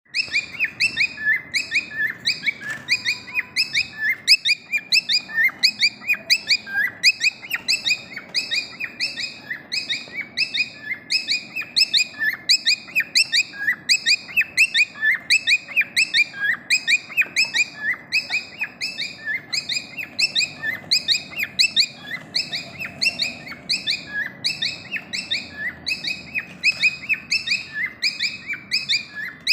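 Small pet parrot chirping continuously in a rapid, repetitive stream of short, sharp high chirps, several a second, without a break.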